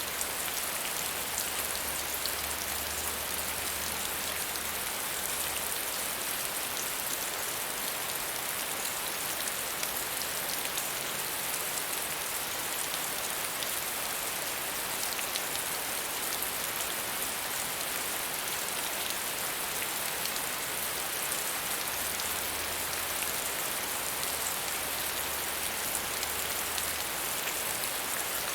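Steady medium rainfall: an even, dense patter of raindrops that holds without change.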